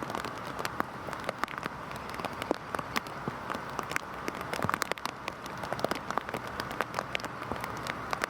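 Heavy rain falling steadily, a continuous hiss dotted with many sharp, irregular ticks of individual drops striking close by.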